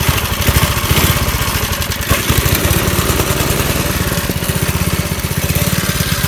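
Briggs & Stratton 2 hp single-cylinder flathead engine on a mini bike running steadily, just after a cold start on a cold day. The firing rate wavers briefly about two seconds in, then settles into an even beat.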